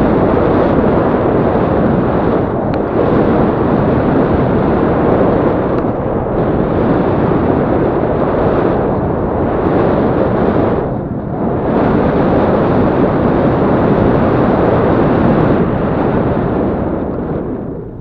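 Heavy wind buffeting on the microphone of a moving Yamaha Crypton-X motorcycle, a dense rumble that covers the engine. It eases briefly about eleven seconds in and dies away near the end.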